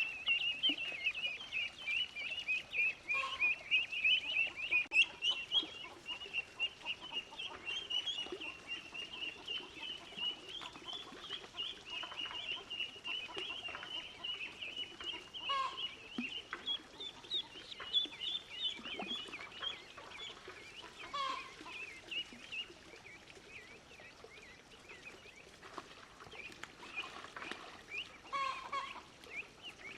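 Chickens calling: a dense chorus of short, high-pitched peeps and clucks that thins out after about twenty seconds, with a few louder calls scattered through.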